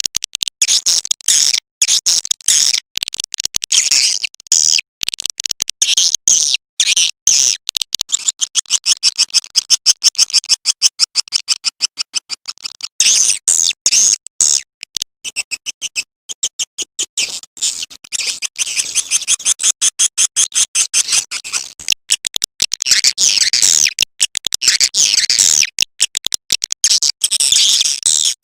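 Edible-nest swiftlet call track (suara panggil walet): rapid, high twittering chirps of swiftlets in quick pulses with short breaks. It is the kind of lure call played to draw swiftlets into a nesting house.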